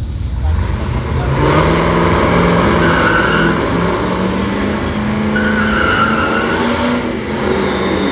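Drag-racing car engine running hard at high revs, its pitch climbing slowly, with a higher squeal coming in twice; near the end the engine note drops and sweeps.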